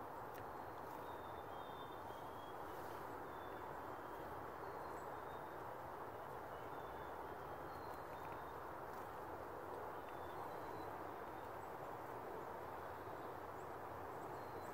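Faint, distant bird calls: short, thin high notes repeated every second or so, over a steady background rumble of outdoor noise.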